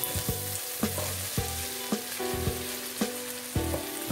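Diced eggplant and potato sizzling as they fry in oil in a stainless steel pan, while a wooden spatula stirs them, with frequent short clicks and scrapes of the spatula against the pan.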